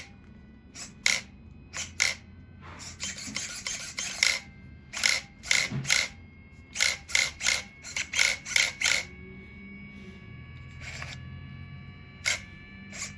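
Steering servo of an Arrma Mojave RC truck buzzing in about twenty short bursts as the steering is flicked back and forth, most of them in quick runs during the first nine seconds and two more near the end. A faint steady whine runs underneath.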